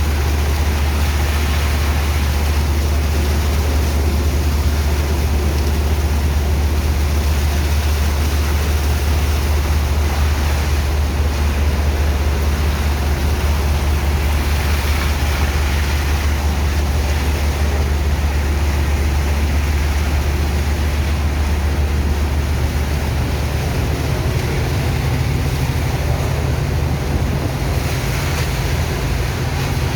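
Heavy engine of a sand-unloading dredge pump running steadily: a deep drone that shifts a little higher in pitch about 23 seconds in, over a steady rushing noise.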